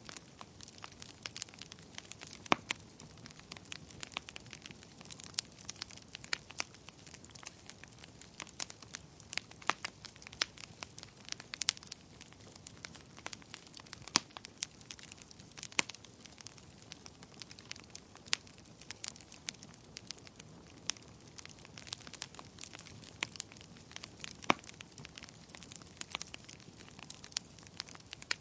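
Wood fire of burning logs crackling: irregular sharp pops and snaps over a steady low hiss of flame.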